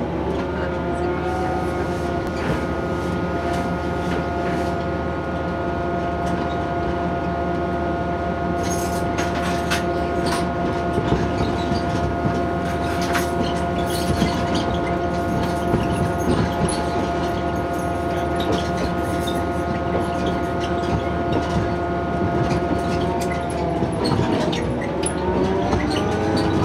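Diesel railcar running, its engine note rising just after the start, holding steady, then dropping near the end, with rail-joint clicks under the wheels from about a third of the way in.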